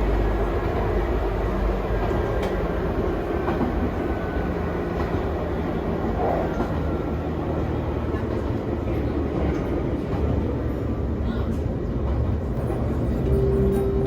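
Nankai 2200-series 'Tenku' sightseeing train running on rails: a steady rumble of wheels and running gear with a low, even hum.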